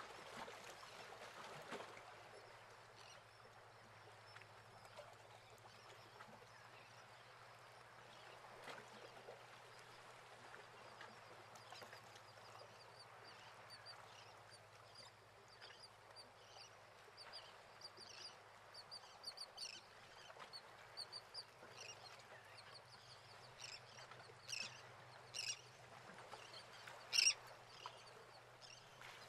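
Birds calling in a run of short, high chirps that grow more frequent and louder toward the end, over a faint steady hum and hiss.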